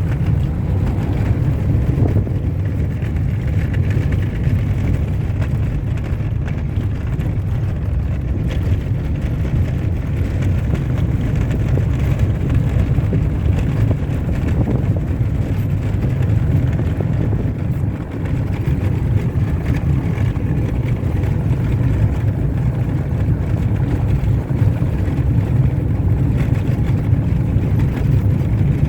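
Car driving along a dirt road: a steady low rumble of engine and tyres.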